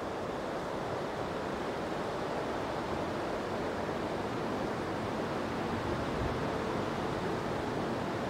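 A steady rushing hiss with no distinct sounds in it.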